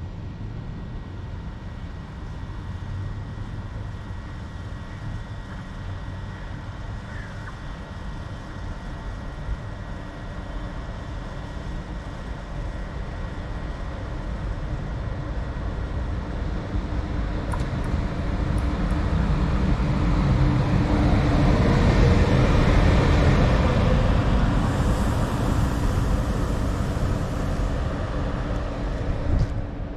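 A train passing: a steady rumble that builds over several seconds, peaks about two-thirds of the way through, then eases off.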